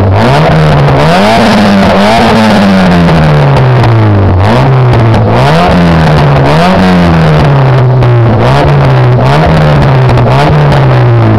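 A Mitsubishi Colt's 1600cc four-cylinder engine, breathing through a cold-air intake and a 2-inch cat-back exhaust, is revved in repeated throttle blips. Each blip climbs quickly and falls back more slowly toward idle, about eight or nine times in all.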